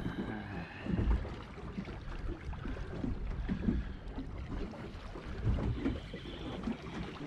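Water slapping against the hull of a small fishing boat, with wind buffeting the microphone.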